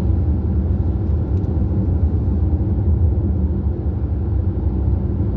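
Steady low rumble of engine and road noise from a vehicle cruising along a highway.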